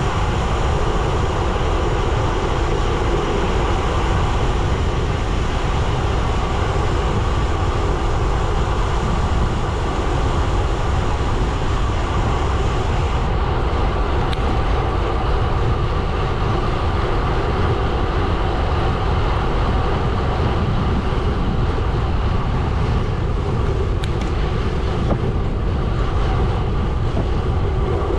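Gravel bike tyres rolling over a gravel road: a steady crunching rumble with no break.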